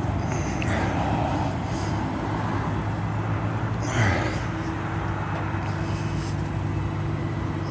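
Vehicle engine idling steadily, with one short knock about four seconds in.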